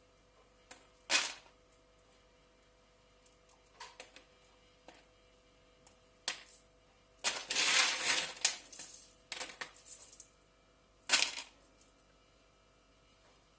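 Kitchen clatter: sharp clinks and knocks of utensils and cookware being handled. A denser rattling stretch runs for about two seconds in the middle.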